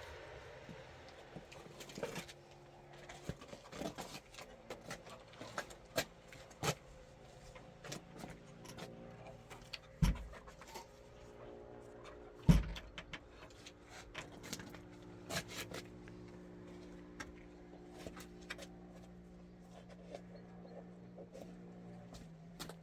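Irregular knocks and clicks, with two heavy thumps about ten and twelve and a half seconds in, over a faint steady hum.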